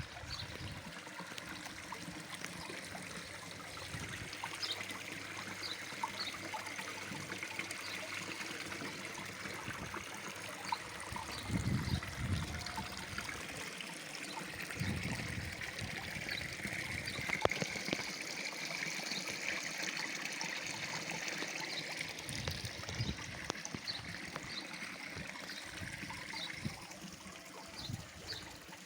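Water running and trickling steadily from a garden rock waterfall into a koi pond.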